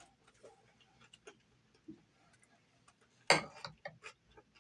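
Scattered small clicks and taps from eating and handling food and tableware, with one louder, brief clattering rustle a little over three seconds in.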